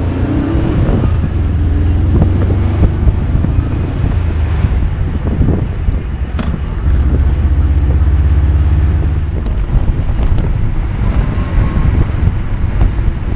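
1978 Volkswagen Beetle convertible's air-cooled flat-four engine running on the move, with the top down and wind buffeting the microphone.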